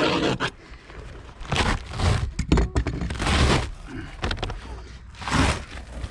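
Scraping and rustling in short bursts, about 1.5, 3 and 5 seconds in, with a few knocks and clicks between, as the rubber roof membrane of a motorhome is pulled up.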